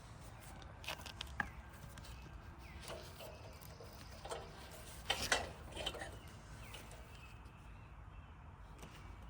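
Irregular clicks and light metallic knocks of hand tools and small parts being handled while a generator carburetor is fitted. Some knocks ring briefly, and the loudest come in a cluster about five seconds in.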